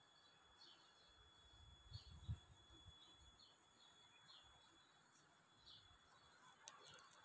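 Near silence with faint, repeated short high chirps of a small bird, one every half second to second. A brief low thump comes about two seconds in, and a sharp click near the end.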